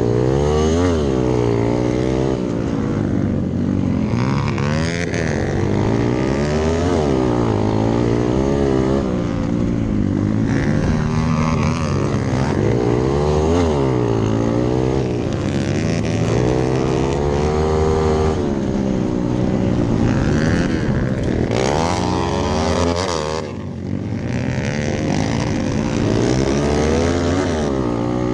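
Rally-built Hero Impulse dirt bike's single-cylinder engine revving hard, its pitch climbing and falling over and over as the throttle is worked through the gears. Near the end the throttle shuts briefly and the engine note drops before it picks up again.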